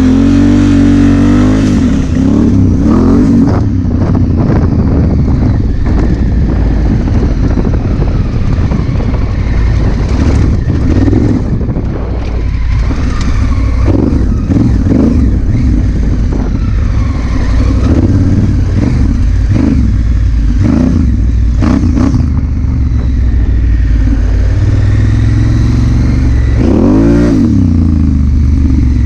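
Honda Africa Twin CRF1000L's parallel-twin engine pulling away and accelerating through the gears. Its pitch climbs at the start and climbs again near the end.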